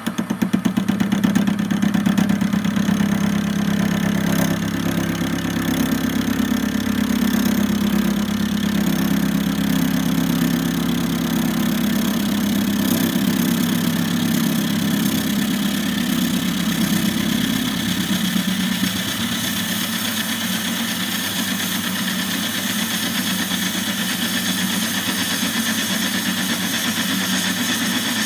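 Warco metalworking lathe running at about 450 RPM while the tool takes a half-millimetre facing cut across a block's sawn edge; the cutting noise starts loud right away and eases somewhat in the last third. It is a harsh cut, one that leaves a poor finish.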